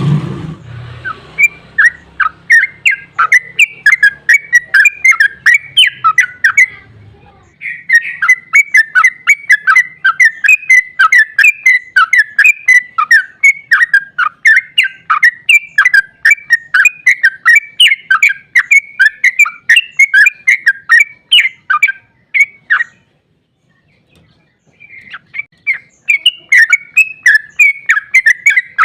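Yellow-vented bulbul (trucukan) singing its long 'ropel' song: fast runs of repeated chirping notes, several a second. The song breaks off for about two seconds near the end, then starts again. A low thump at the very start, with a low hum under the first several seconds.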